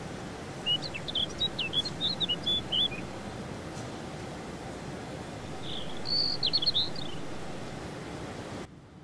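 A bird sings two short phrases of quick, high chirps about five seconds apart, over a steady low background hum of outdoor ambience. Near the end the hum cuts out suddenly to a quieter hush.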